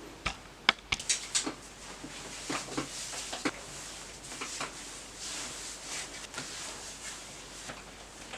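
Clothes being handled and sorted: several sharp clicks in the first second or so, then scattered lighter taps and fabric rustling.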